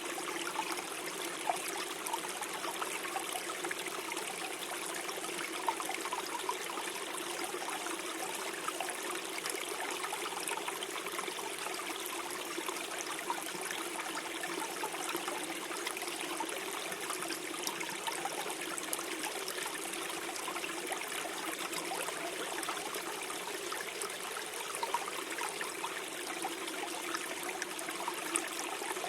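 Small forest stream flowing steadily, water trickling and gurgling over stones.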